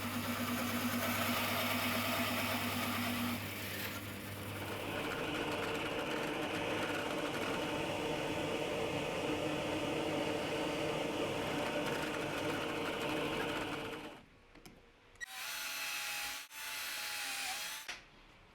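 A workshop power tool runs steadily, its tone shifting about four seconds in, then stops; two short runs of about a second each follow near the end.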